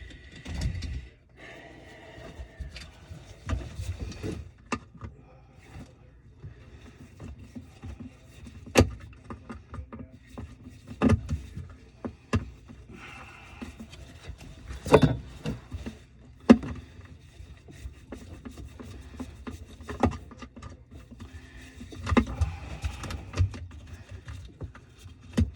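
Irregular clicks, knocks and clatter of tools and parts being handled while working on a garbage disposal and its drain piping under a kitchen sink, over a low steady hum.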